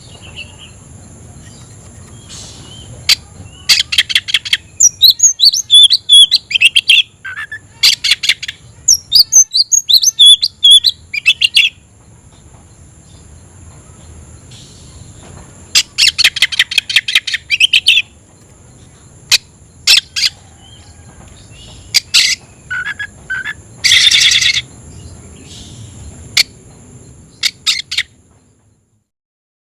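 Oriental magpie-robin (kacer) singing loudly in hot, agitated bursts of rapid chirps, whistled phrases and harsh buzzy notes, the challenging song it gives to call out a rival. The song comes in several outbursts with short pauses between them, over a faint steady high whine.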